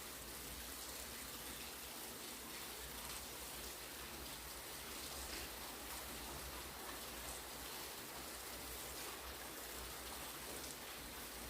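Heavy rain falling steadily, an even hiss of drops with no thunder or other events standing out.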